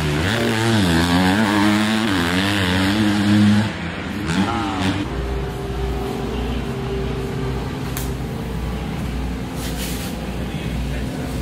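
Dirt bike engine revving, its pitch rising and falling repeatedly. About four seconds in, it gives way to a steadier, quieter engine sound with an even low throb.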